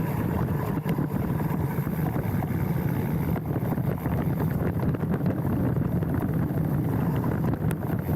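Mountain bike rolling down a dirt trail, heard through a handlebar-mounted action camera: steady wind rumble on the microphone with tyre noise and small rattles and knocks from bumps in the trail.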